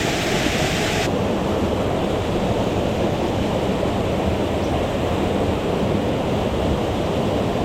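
Rushing mountain stream water, a steady dense noise strongest in the low range; its higher hiss drops away suddenly about a second in.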